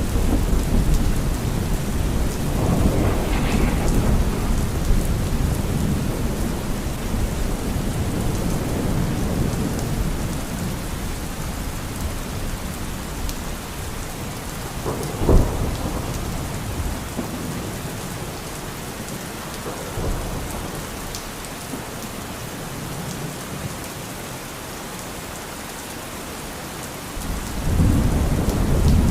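Steady rain falling, with rolling thunder that rumbles at the start and fades, a sharp thunderclap about halfway through, and a new rumble building near the end.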